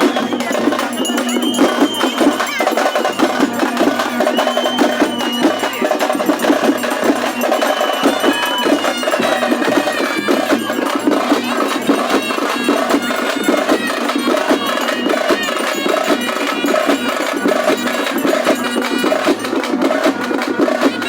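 Traditional festival music: fast, dense drumming with a high reed pipe playing a wavering melody above it.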